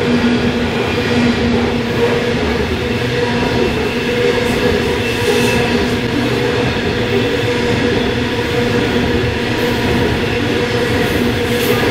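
Loaded coal hopper wagons rolling past on the rails: a steady rumble of steel wheels on track with a continuous hum underneath.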